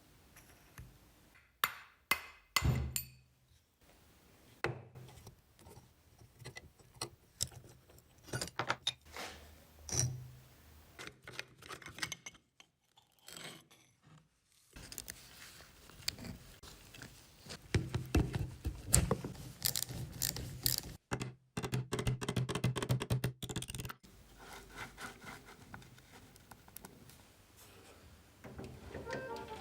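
Workshop hand work on motorcycle parts: irregular knocks, scrapes and rubbing, with a low steady hum and rapid ticking through the middle stretch.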